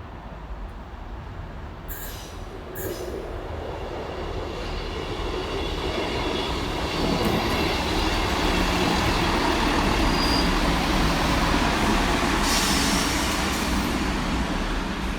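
Class 158 diesel multiple unit running into the platform, growing steadily louder as it comes in. Two sharp clicks come about two seconds in, and a short high squeal about ten seconds in.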